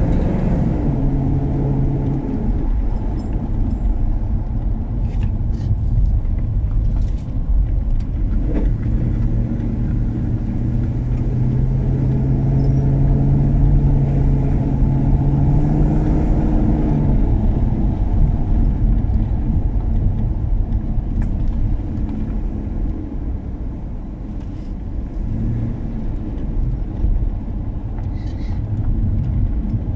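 BMW E39 535i's 3.5-litre V8 engine running while the car is driven, its pitch holding steady for stretches and shifting up and down now and then, over a steady low road noise.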